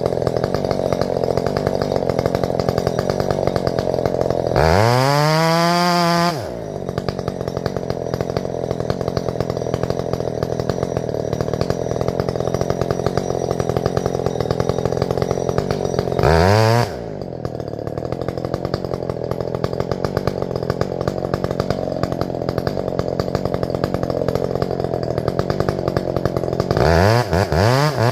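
Chainsaw running steadily as it cuts the back cut into a fir trunk. Three times the engine revs up high for a moment: about five seconds in, around sixteen seconds in, and near the end.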